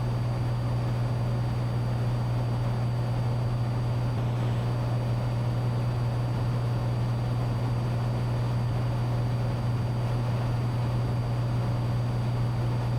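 Steady drone of a Cessna 182T's engine and propeller in cruise, heard inside the cockpit: a constant low hum with an even hiss over it, unchanging throughout.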